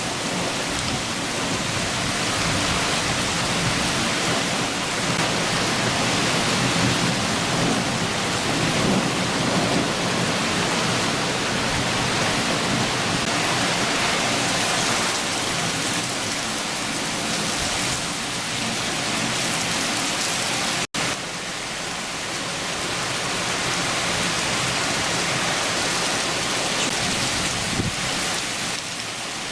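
Steady downpour of a rain shower, with a low rumble of distant thunder under it, strongest in the first half. The sound drops out for a split second about two-thirds of the way through.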